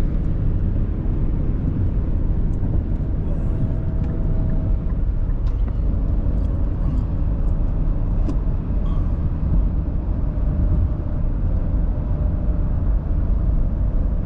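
Steady low rumble of a vehicle climbing a steep grade, heard from inside the cab: engine and road noise that holds an even pace, with a few faint ticks.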